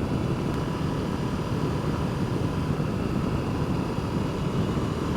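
Steady wind rush in the helmet over the even drone of a 2024 KTM 790 Adventure's parallel-twin engine, held at a constant cruising speed.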